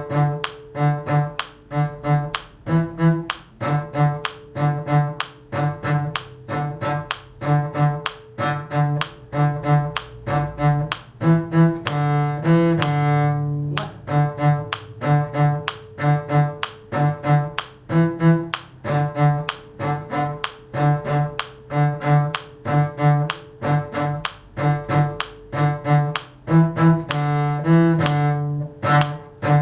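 A bowed string instrument playing the harmony line of a tune in D major in six beats, in a steady run of short, evenly paced notes, with one longer held note about halfway through.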